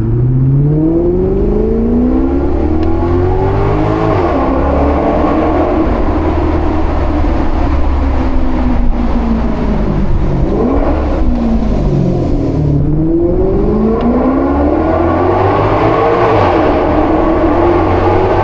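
Maserati GranCabrio's Ferrari-derived 4.7-litre V8 under hard acceleration: the revs climb for about four seconds, drop at an upshift, hold, fall away around the middle as the car slows, then climb again near the end.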